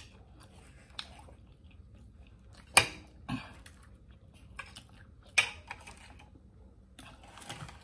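Close-up chewing and wet mouth sounds of someone eating a fried-liver taco, with a few sharp clicks. The loudest clicks come about three and five and a half seconds in.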